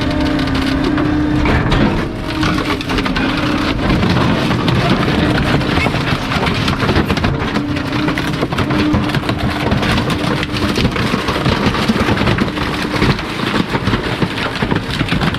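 Garbage truck's compactor crushing bulky waste: dense crackling and cracking over a steady humming, the hum dropping out for a few seconds near the start and coming back.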